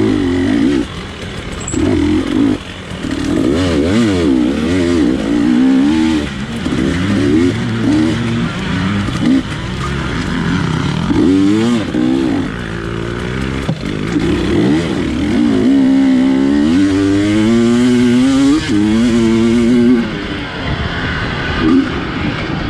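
GasGas 250 dirt bike engine revving hard and falling back again and again as the throttle is opened and shut, its pitch sweeping up and down every second or two.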